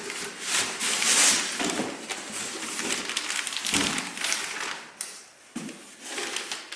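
Rustling and scraping of cardboard packaging as parts are lifted out of the shipping box, with a knock about four seconds in.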